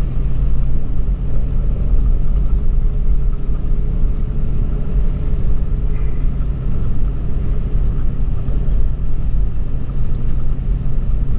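2013 Toyota 4Runner SR5's V6 engine running steadily while the SUV drives on sand, a constant low rumble with an even engine drone.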